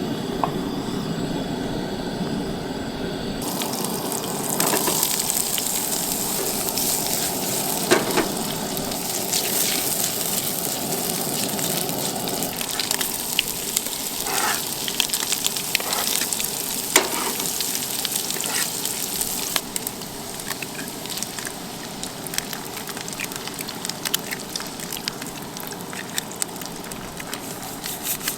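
Breakfast frying in a pan: a steady sizzle that sets in about three and a half seconds in, with scattered clicks and scrapes of a utensil. Before the sizzle, a steady hum with a few held tones.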